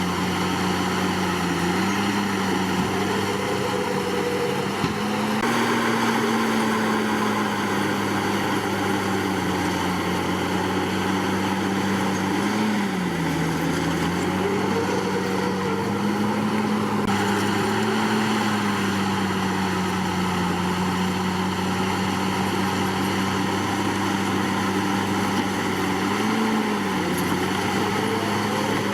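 Komatsu D61PX bulldozer's diesel engine running steadily, its pitch dipping and rising briefly a few times as it works.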